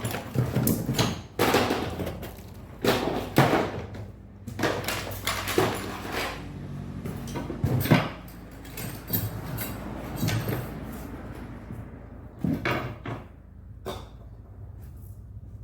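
Irregular knocks and clatter of tools and parts being handled in a workshop, over a faint steady low hum.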